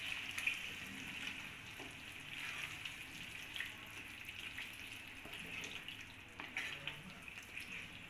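Raw chicken pieces sizzling in a wet masala in a nonstick kadai as they are stirred in with a spatula. A low, steady hiss runs throughout, with light scraping ticks from the spatula.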